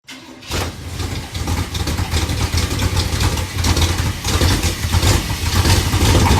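Chevy pickup's engine running hard and loud through Cherry Bomb glasspack mufflers, with a deep pulsing exhaust note that builds over the first second.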